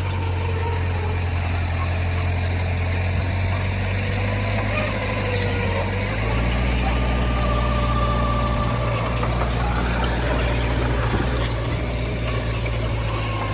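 Heavy diesel engine of earthmoving machinery running steadily, a low drone that deepens and strengthens about six seconds in, as under more load.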